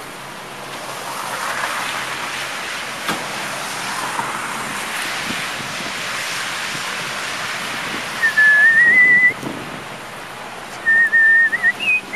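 A person whistling two short phrases of a tune, the first about 8 seconds in and the second near the end, over a steady rushing of wind and street traffic.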